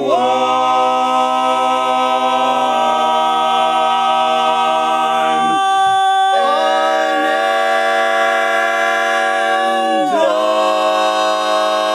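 Male barbershop quartet singing a cappella, holding long sustained chords on one word with slow chord changes about three, six and ten seconds in.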